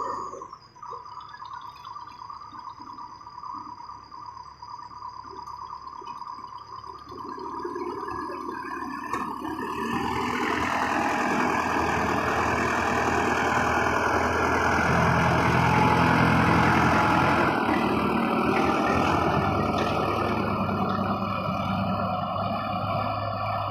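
Tractor diesel engine running, quieter at first, then growing louder from about eight to ten seconds in and staying loud with a steady hum.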